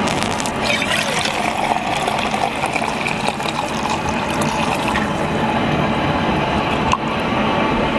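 Water splashing and gurgling steadily.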